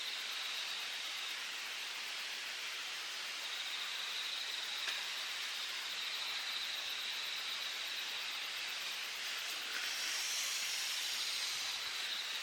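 Valley stream rushing steadily, with insects trilling in a steady high band over it. A second, higher-pitched insect trill joins for about two seconds near the end.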